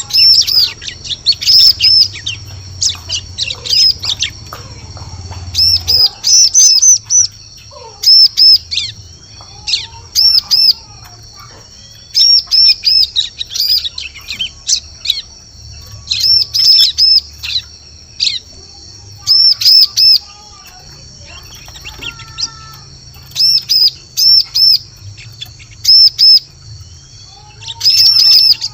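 Ciblek (prinia) lure call: repeated short bursts of rapid, high-pitched chirping notes every second or two, with fainter calls of other birds between the bursts.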